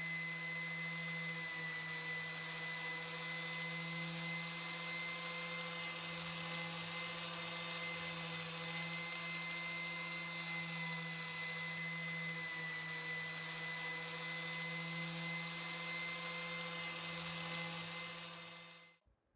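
Small electric power tool running steadily, a constant hum with a thin high whine. It fades and stops shortly before the end.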